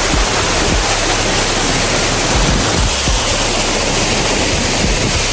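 A waterfall roaring steadily, an even rush of falling water with no break.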